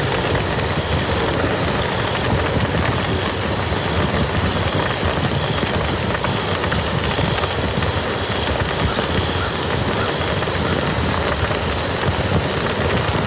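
Campfire crackling with scattered small pops over the steady rush of a flowing river.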